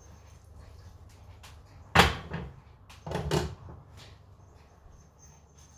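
A sharp knock about two seconds in, then a quick cluster of knocks and clatter about a second later: kitchen handling sounds, like a cupboard door shutting or utensils set down on a counter.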